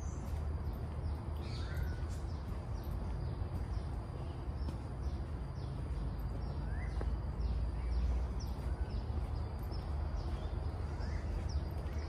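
Forest birds calling: many short, high, quick chirps, and a rising call repeated three times, about every four to five seconds. A steady low rumble runs underneath.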